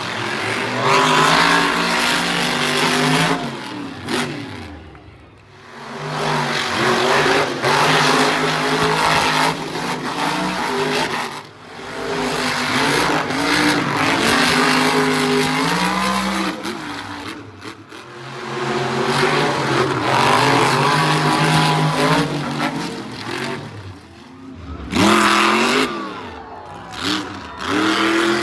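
Monster truck engine revving hard in repeated throttle surges, its pitch climbing and falling, with short lulls where the throttle is lifted, about five, eleven, seventeen and twenty-four seconds in.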